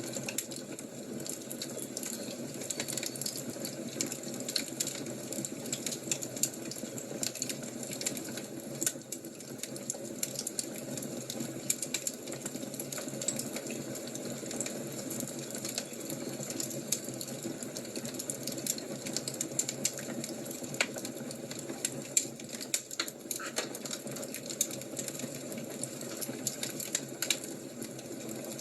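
Wood fire crackling: a steady soft hiss with frequent sharp pops and snaps, a few louder ones in the second half.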